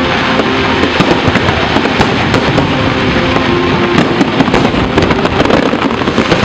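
Fireworks display: a dense, continuous crackling and popping of many shells and crackling stars going off at once.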